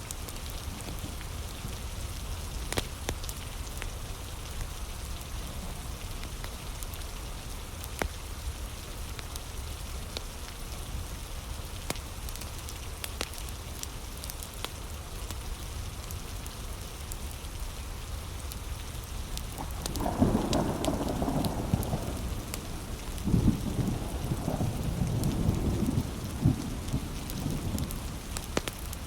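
Steady heavy rain with scattered sharp crackles from a wood fire. A low rumble of thunder comes in about twenty seconds in and lasts several seconds.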